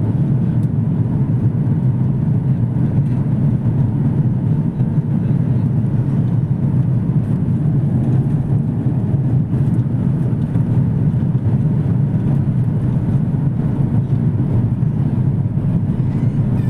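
Airbus A330-300 cabin noise during the takeoff: a loud, steady, low rumble of the jet engines and rushing air, even throughout.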